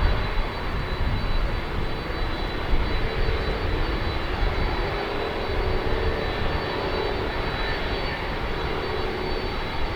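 Boeing 767-300F freighter's jet engines running steadily at low power: a constant low rumble with a faint, steady whine over it, the aircraft holding before its takeoff.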